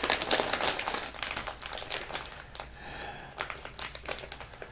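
Plastic zip-top bag crinkling and rustling as it is handled, in a run of irregular crackles that thin out toward the end.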